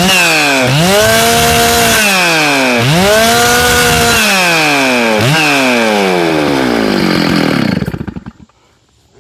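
Large 90cc-class two-stroke professional chainsaw revved to full throttle several times and let back down to idle in between. About eight seconds in it is shut off and winds down to a stop.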